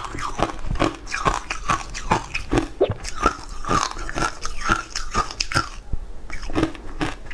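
Close-miked chewing of a crunchy food: crisp crunches several times a second, with wet mouth sounds between them.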